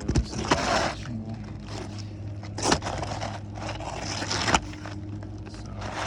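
Asphalt roofing shingles being handled and shifted, gritty scraping sounds with a few sharp knocks.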